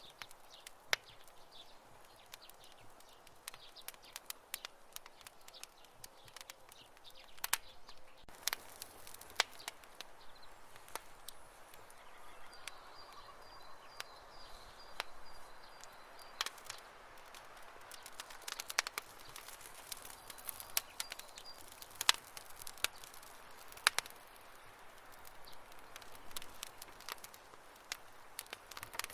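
Wood campfire crackling, with irregular sharp pops and snaps over a soft hiss. A faint high chirping trill, like a cricket, comes in from about twelve to sixteen seconds in.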